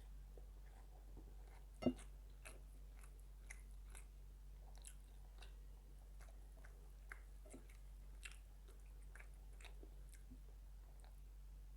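Close-up eating sounds: a person chewing food with soft, scattered mouth clicks and smacks, and one louder click about two seconds in.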